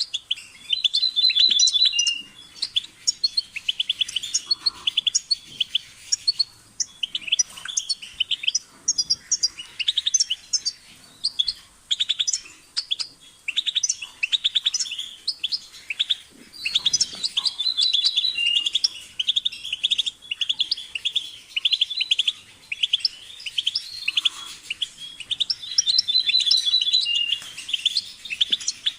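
European goldfinch singing: rapid twittering phrases of high chirps and short trills with brief pauses between them, one trilled motif recurring several times.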